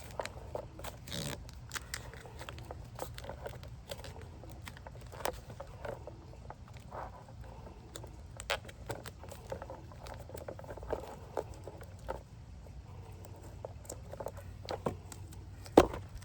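Scattered light clicks and knocks of small parts and tools being handled during hands-on assembly work, with one sharper knock near the end.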